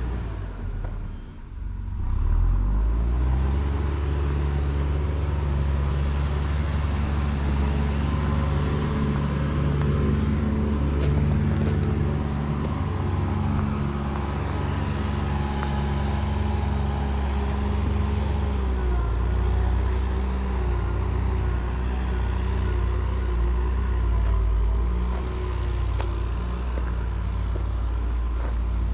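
A motor vehicle's engine running as it drives, with steady low rumble and road noise. The engine note rises about two seconds in, holds steady, and drops back around eighteen seconds in.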